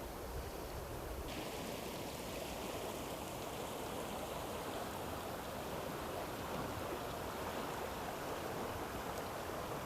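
Steady rush of flowing river water, growing a little brighter just over a second in.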